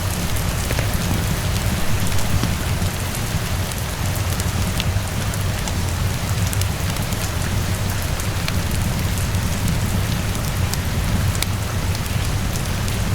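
Steady rain with a deep low rumble, mixed with scattered sharp crackles of a wood fire in a fireplace.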